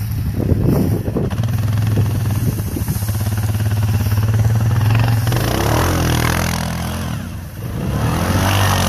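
Dodge Cummins turbo-diesel pickup engine with a full exhaust, running steadily while driving. In the second half its pitch wavers down and back up, with a brief drop in level before it picks up again near the end.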